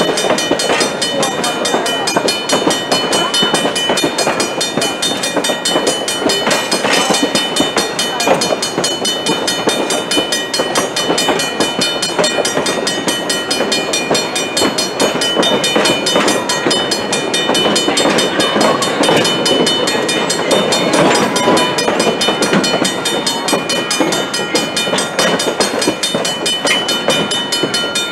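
Narrow-gauge train rolling along the track: a steady running noise with many small knocks and rattles from the wheels and cars.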